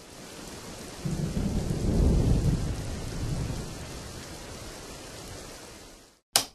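Steady rain with a low roll of thunder that swells about a second in and slowly fades; it cuts off abruptly, followed by one sharp click near the end.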